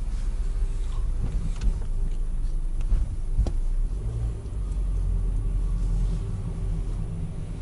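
Car engine running at low speed as the car rolls slowly along, heard from inside the cabin as a steady low rumble, with a few sharp clicks.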